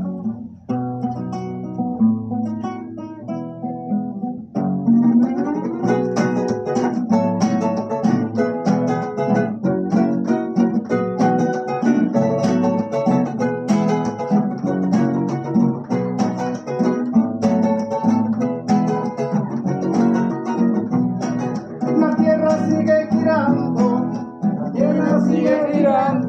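Acoustic guitar music: an instrumental song introduction, lighter at first and then strummed more fully from about four seconds in.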